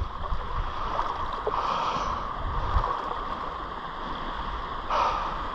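Shallow surf washing in, with water swirling and sloshing in an even, noisy wash.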